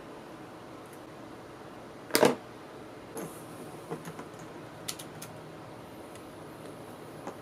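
Scattered sharp clicks and taps of small parts and tools being handled at a workbench, one louder click about two seconds in followed by several fainter ones, over a steady low hiss.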